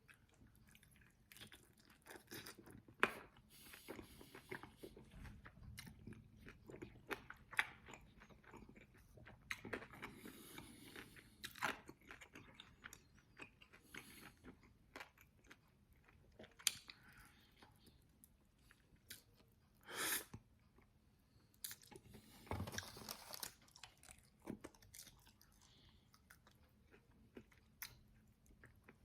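Close-miked chewing of extra-well-done fried chicken wings: irregular crisp crunches and bites over wet chewing.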